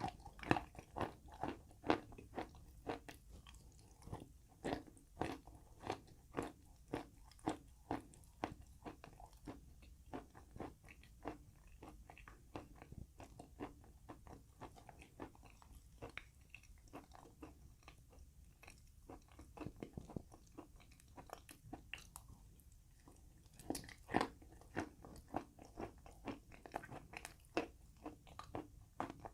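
A person crunching and chewing chalk with paste, in quick crisp bites about two a second. The crunching is loudest in the first several seconds and again near the end, and softer in between.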